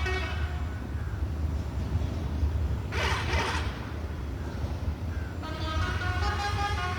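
Road vehicle engines running with a steady low rumble, a short burst of hiss about three seconds in, and a run of pitched tones stepping up and down like a tune from about five and a half seconds.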